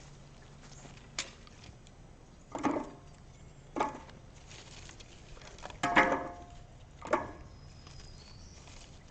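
Pieces of firewood being laid onto a campfire: about five separate knocks and clunks of wood on wood, the loudest about six seconds in.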